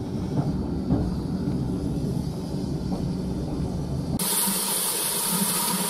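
Low rumble of a heritage railway carriage running, heard from inside, with a few knocks. About four seconds in it cuts abruptly to a steady hiss of steam from GWR small prairie tank locomotive 5541.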